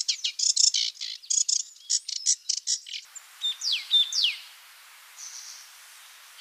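Small birds chirping in quick, dense runs of short high notes. After an abrupt switch to another recording, a bird gives two calls, each a short steady note followed by a whistle sliding downward.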